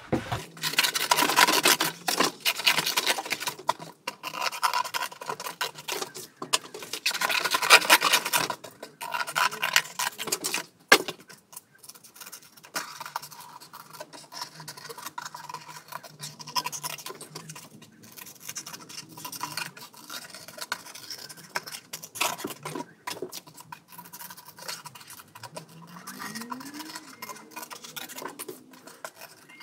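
Scissors cutting through thin brown cardboard, the blades rasping through it in uneven stretches. The cutting is louder in the first few seconds and again around eight seconds in, then quieter and more scattered.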